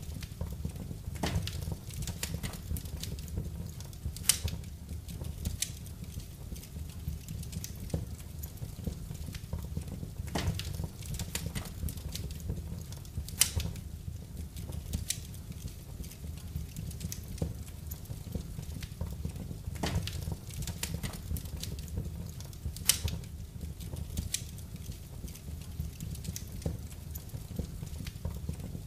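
Fireplace fire burning: a steady low rumble of the flames with irregular sharp crackles and pops, several of them louder than the rest.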